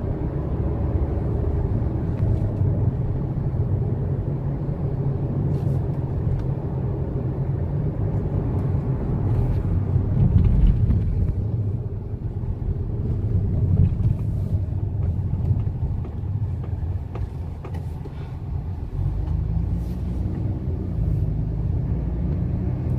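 Car on a test drive: steady low engine and road rumble, swelling briefly about ten seconds in. Its four-cylinder engine has new ignition coils and spark plugs after a misfire, and the mechanic considers it fixed.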